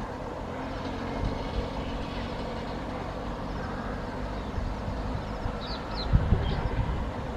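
Passing train on the track: a steady rumble of wheels on rail, with a few faint high chirps near the end.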